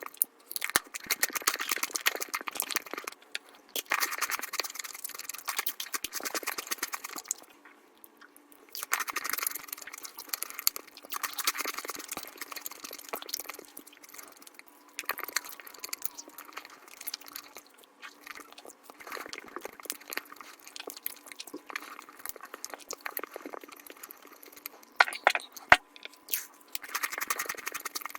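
Close-miked mukbang eating sounds sped up fivefold: chewing and crunching of chocolate come as a fast, dense stream of clicks and crackles in bursts with short pauses, and a sharper loud click near the end.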